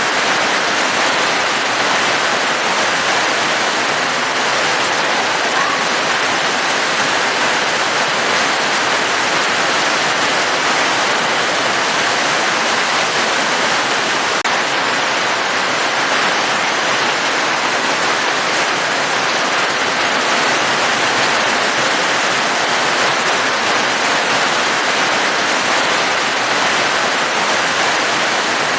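Steady rain falling without a break: an even, unchanging hiss.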